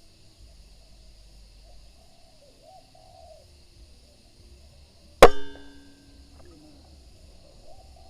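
A single air rifle shot about five seconds in: a sharp crack with a brief metallic ring. Behind it, a steady faint insect buzz and a few soft bird calls.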